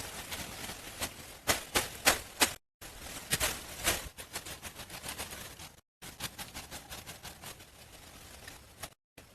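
A series of sharp knocks and cracks, some in quick runs and some spaced out, cut into short clips by sudden silent breaks.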